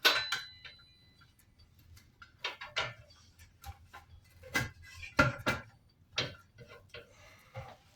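Small metal parts and hand tools being handled: a ringing metal clang at the start, then scattered clinks and knocks, the loudest about five seconds in.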